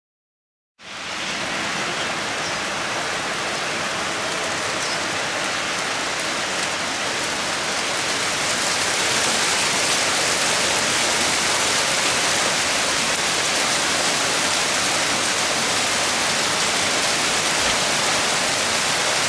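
Heavy rain with small hail falling on wooden decking and foliage: a steady, dense hiss that starts suddenly about a second in and grows louder about halfway through.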